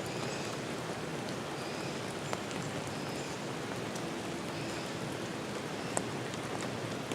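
Steady rain falling, with a few sharper single drops, one about two seconds in and a louder one near six seconds.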